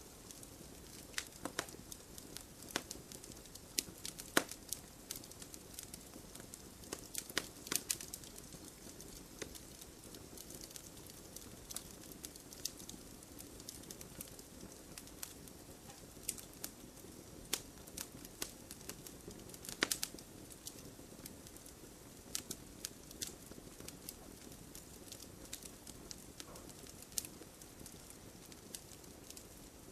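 Fire in a fireplace crackling: irregular sharp pops and snaps over a soft, steady rush of flame, with a few louder pops about four seconds in and again about twenty seconds in.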